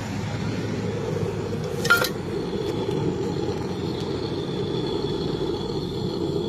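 Brazing torch flame burning steadily on refrigerator compressor pipework, with one sharp metallic clink about two seconds in.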